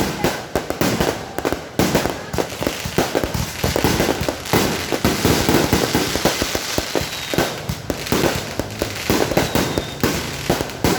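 Many fireworks and firecrackers going off together in a dense, unbroken run of cracks and bangs. Faint whistles come through about seven and about nine and a half seconds in.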